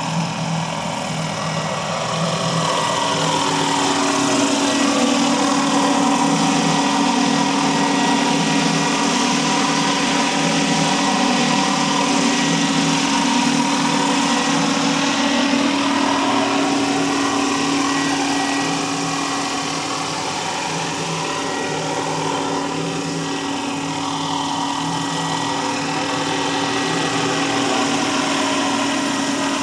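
A large 700-size, five-blade RC scale helicopter running in flight: a steady high whine with rotor noise, its pitch swinging slowly up and down as it moves about.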